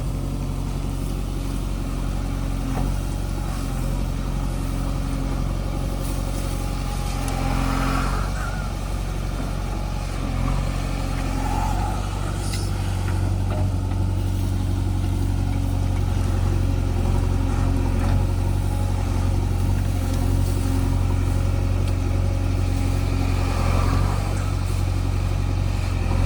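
Diesel engine of a JCB 3DX backhoe loader running steadily under work, a little louder from about halfway through.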